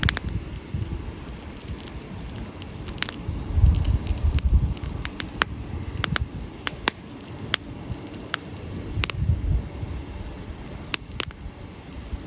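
Wood campfire crackling, with irregular sharp pops and snaps over a low rumble that swells twice.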